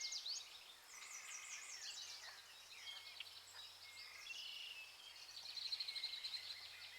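Faint background birdsong: several birds giving short high chirps and whistles, with a rapid high trill from about five seconds in.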